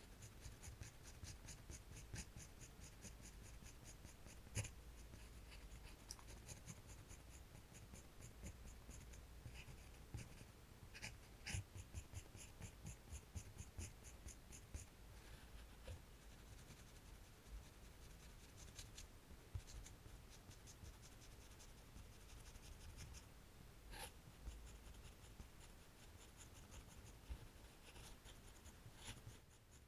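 Quiet drawing strokes on paper: runs of quick, light scratches, with a few sharper taps.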